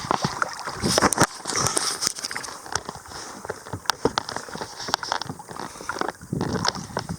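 Lake water sloshing and gurgling against a kayak's plastic hull, with scattered small knocks and clicks, the loudest about a second in.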